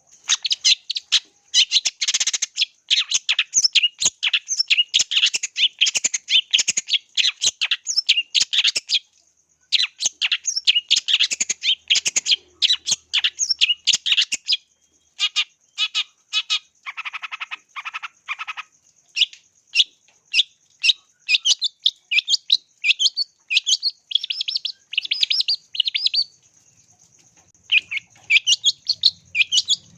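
Long-tailed shrike (cendet) singing in fast runs of sharp, high chirps with short pauses, over a steady thin high tone. About halfway through, the song turns to a run of lower, rougher notes before the quick chirps resume.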